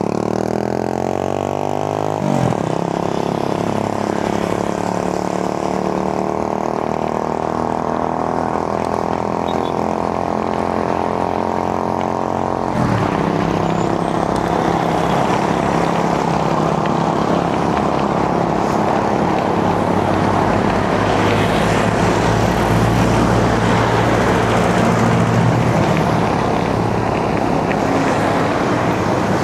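A motor vehicle's engine close by drops in pitch as it slows, then runs at a steady pitch for about ten seconds. It cuts off about thirteen seconds in, and steady road traffic noise takes over.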